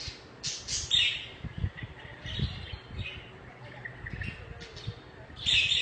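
Budgerigars chirping and warbling in quick bursts of high chirps, loudest about a second in and again near the end.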